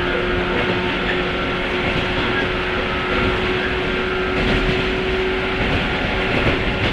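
JNR 103 series electric train motor car running at steady speed, heard from inside the car: a steady whine from its MT55 traction motors and gearing over the rumble of wheels on rail.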